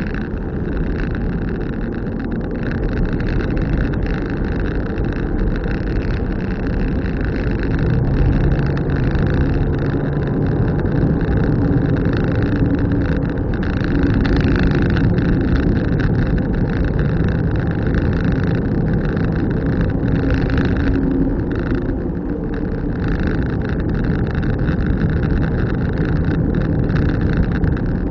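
A car driving along, heard from inside the cabin: steady road and tyre noise with an engine hum that shifts in pitch now and then.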